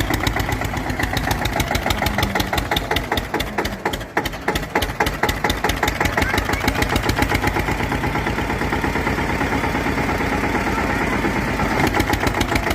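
Eicher 241 tractor's single-cylinder diesel engine running hard under load, each firing stroke a distinct, rapid, even thud. The level dips briefly about four seconds in.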